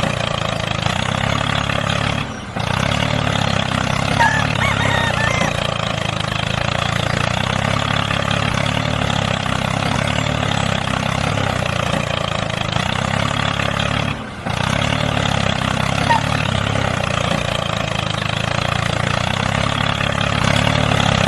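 Tractor engine running steadily while pulling a plough, with a short break in the sound twice, about twelve seconds apart. A few faint bird chirps are heard.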